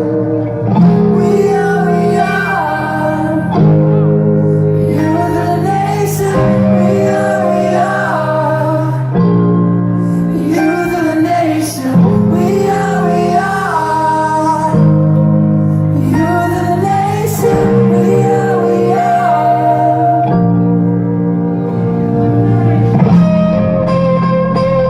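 Live rock band playing in a hall, with held bass chords changing every couple of seconds and voices singing a melody above them.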